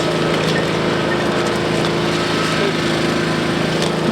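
Small engine running steadily at one speed.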